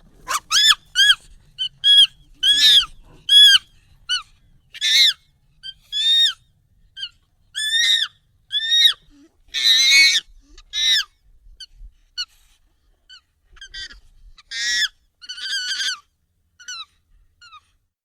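Monkey calls, sped up and pitched up: a string of short, high, arching calls, about one or two a second, with a louder, harsher call about ten seconds in. The calls thin out near the end.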